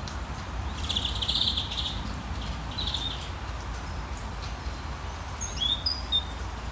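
Rainforest ambience: a steady hiss of rain over a low rumble, with birds calling. A loud buzzy call comes about a second in and a shorter one near three seconds. A few short whistled chirps follow near the end.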